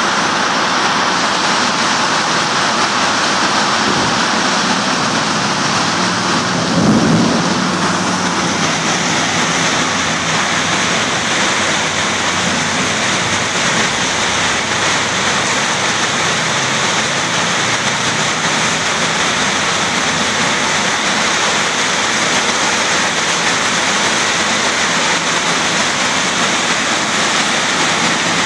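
Heavy rain pouring steadily in a dense, loud hiss, with a brief louder low thump about seven seconds in.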